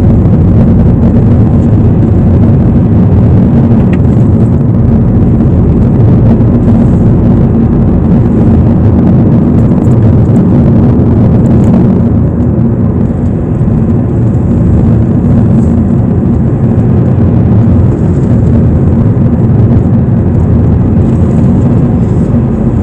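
Car driving along a road: steady, loud engine and tyre noise with no change in pace.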